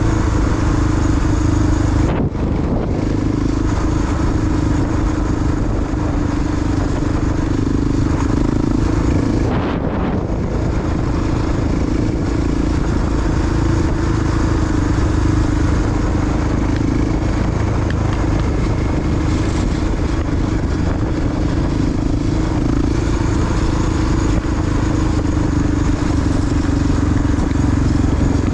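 A big single-cylinder four-stroke Honda XR dual-sport motorcycle engine runs steadily under way. It dips briefly about two seconds in and again about ten seconds in.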